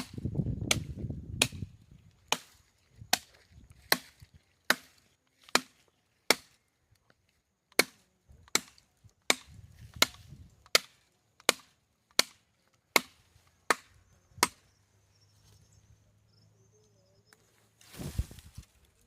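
Wood being chopped with a blade in sharp, regular blows about every three-quarters of a second, pausing twice along the way. A brief noisy crash comes near the end.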